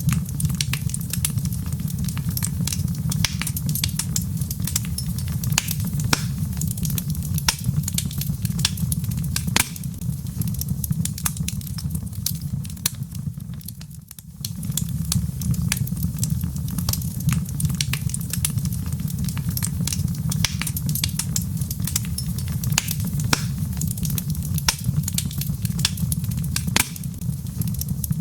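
Wood fire in a fireplace crackling, with many sharp pops and snaps over a steady low rumble. The sound briefly fades and dips about halfway through before the crackling picks up again.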